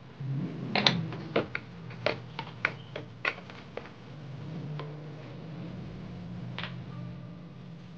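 Plastic water bottle being handled and worked on: a quick run of sharp clicks and crackles in the first half, and one more click near the end, over a low steady hum.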